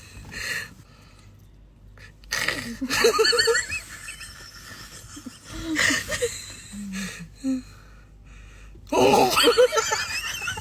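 A person making comic vocal sound effects, wordless warbling and sneeze-like noises in several short bursts with pauses between, the loudest near the end.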